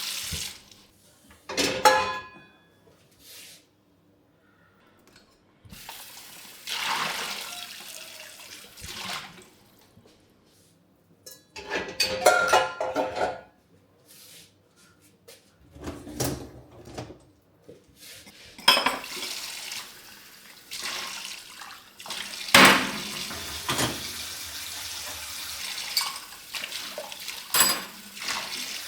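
Washing up at a kitchen sink: the tap runs in stretches while dishes and cutlery clink and knock as they are handled and rinsed, with a few sharp ringing clinks standing out and short quiet pauses between.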